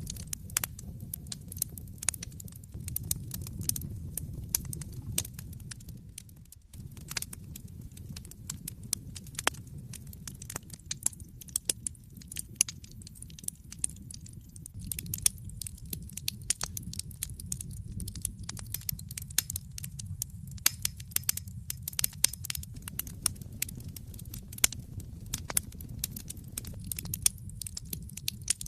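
Wood fire crackling in a fireplace: a dense, irregular stream of sharp pops and snaps over a low rumble from the burning logs, with a brief drop in level about six seconds in.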